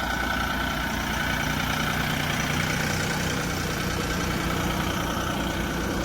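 Vermeer SC48TX stump grinder's engine running steadily with an even, unchanging hum.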